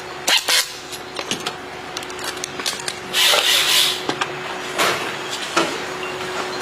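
Workshop clatter: scattered knocks and clicks, and a burst of hiss lasting about a second near the middle, over a faint steady hum.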